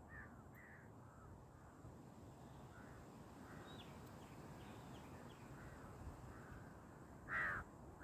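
Birds calling faintly and intermittently in open scrubland, then one loud, harsh crow-like caw near the end.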